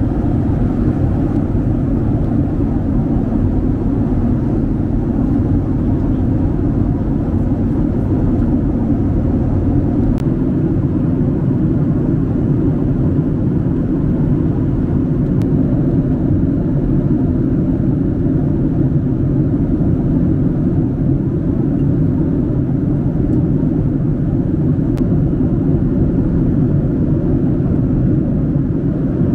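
Steady cabin drone of a Boeing 767-300 airliner: engine and air noise heard inside the cabin, even and unchanging.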